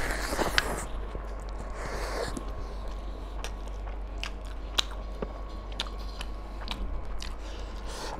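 Close-up eating sounds of a man chewing mouthfuls of mutton curry and rice: wet, squelchy mouth sounds with scattered sharp crunchy clicks. A faint steady hum runs underneath.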